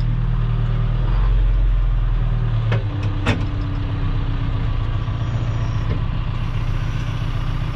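Engine of a gravel-working machine running steadily under light load, with two sharp clanks about three seconds in.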